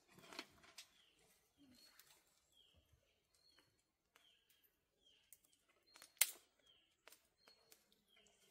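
Faint bird chirping: short, repeated calls that fall in pitch, with scattered light clicks and one sharper click about six seconds in.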